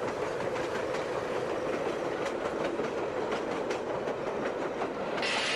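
A train running along the track, its wheels clicking over rail joints under a steady rumble. About five seconds in it cuts abruptly to a steady hiss.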